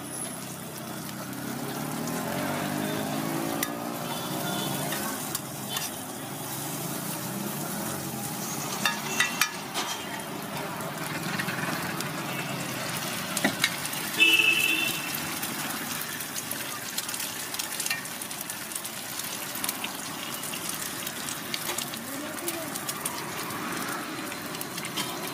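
Onions, then poured egg, sizzling steadily on a hot flat iron griddle (tawa). A few sharp clicks, and a brief high tone that is the loudest sound, about halfway through.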